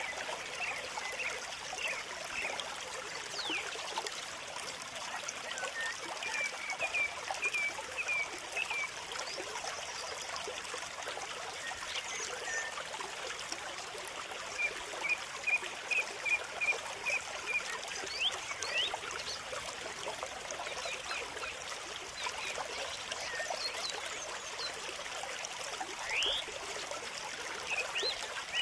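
Steady trickling water with small birds chirping over it: two runs of quick short chirps, several a second, in the first and middle parts, and scattered single calls.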